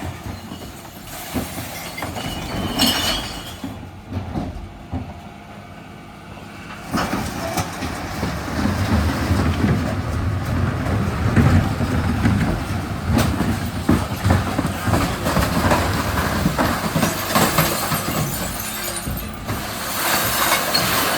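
Refuse lorry rumbling with irregular knocks, rattles and clanks. It is quieter for the first few seconds and becomes loud and continuous about seven seconds in.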